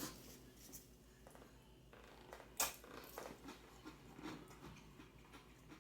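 Faint chewing and mouth sounds of a man eating, with a few small clicks and one sharper click about two and a half seconds in.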